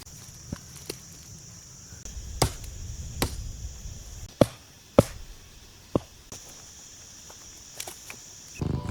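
About five sharp knocks, irregularly spaced roughly a second apart through the middle, over a steady high-pitched insect drone that drops out for a couple of seconds and comes back. Music begins right at the end.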